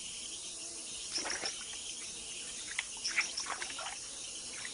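Rainforest insects chirping steadily in the background, with a few brief splashes and sloshes as a jaguar paws through shallow murky water.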